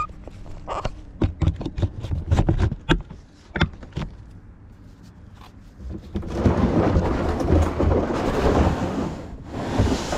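A quick run of hollow knocks and clunks, as of a paddle and gear bumping a kayak's hull, then about three seconds of rushing, splashing water with a low rumble, a brief break, and the rush again.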